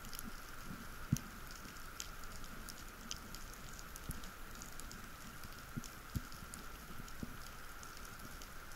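Underwater ambience on a breath-hold dive: a faint steady hiss with irregular scattered clicks, crackles and a few sharper pops.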